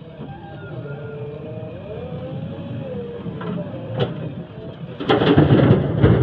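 JCB 3DX Plus backhoe loader's diesel engine running, its pitch rising and falling as it works. About five seconds in, a much louder, rough noise starts.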